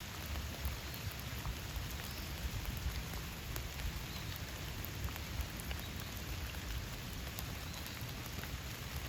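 Steady rain falling in a forest: many separate drops tick over an even hiss, with a low rumble underneath.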